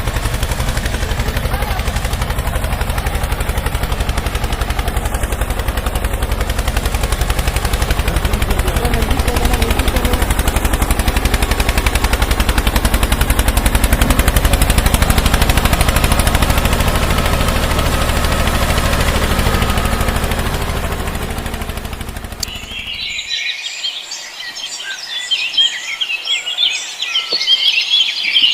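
A vehicle engine running with rapid, even pulses, slightly louder in the middle. It cuts off about 23 seconds in, leaving birds chirping.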